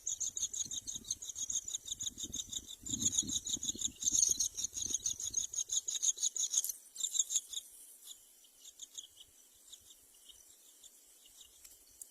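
Nias hill mynas at the nest giving rapid, raspy, high-pitched calls in quick pulses, thinning to sparse faint ticks after about seven seconds.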